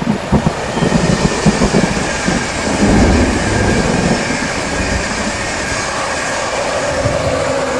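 Electric passenger train passing at speed: a steady rumble with the clatter of wheels over the rail joints and a faint steady whine above it, loudest about three seconds in.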